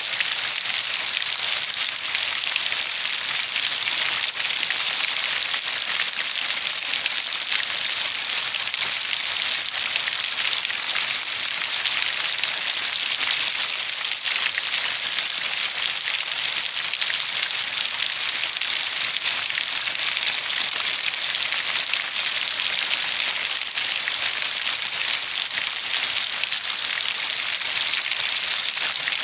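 Steady rainfall: dense patter of raindrops on a surface, an even hiss with no change in strength.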